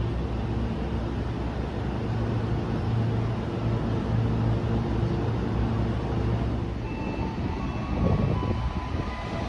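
Electric commuter train standing at the platform, a steady low hum. About seven seconds in, the sound changes to a louder rumble with faint, thin, high-pitched whining tones.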